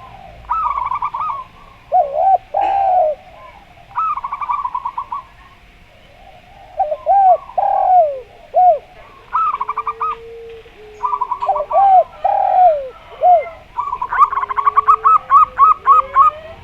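Zebra dove (perkutut) and spotted dove (derkuku) cooing back and forth: fast runs of short staccato notes alternate with lower, swinging coos, several phrases in turn, the busiest run near the end.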